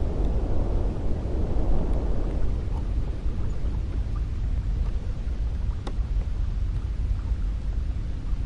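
Cold wind blowing, a low steady rumble; a stronger gust eases off over the first couple of seconds.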